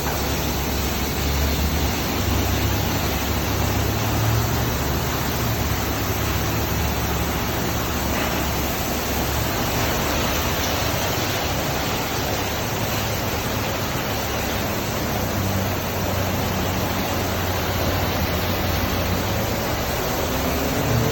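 Car wash machinery running: a steady rushing noise over a low hum.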